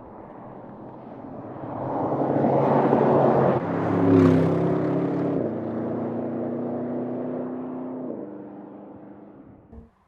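Audi RS Avant's twin-turbo engine and sports exhaust as the car drives by: the sound builds to a peak about four seconds in and then fades away. The engine note steps down twice on the way out.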